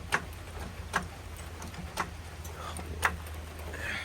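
Floor jack being pumped to lift the car off its jack stands: a sharp click with each stroke of the handle, four strokes about a second apart.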